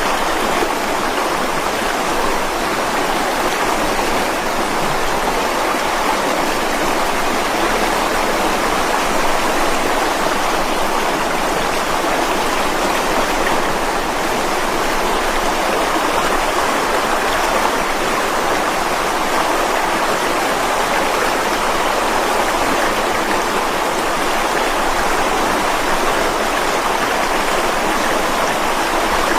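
Mountain stream rushing steadily over rocks: a constant, even water sound with no breaks or separate splashes.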